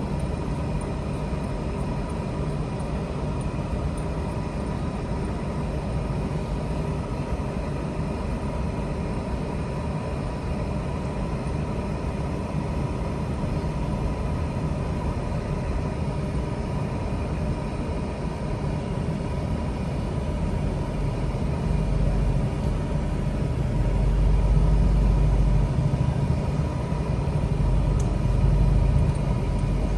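A car being driven: a steady rumble of engine and road noise, which grows louder about two-thirds of the way through.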